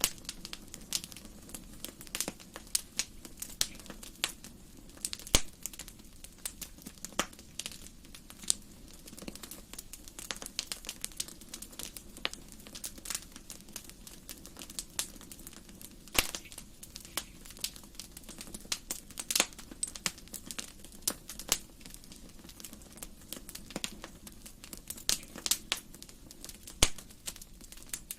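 Wood fire burning in a fireplace, crackling and popping irregularly over a low, steady rush of flame.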